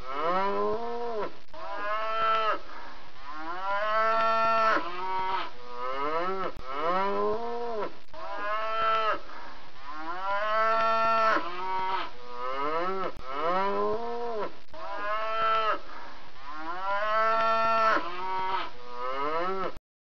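Cattle mooing over and over in short calls, one after another, each rising and then falling in pitch. The calls cut off abruptly near the end.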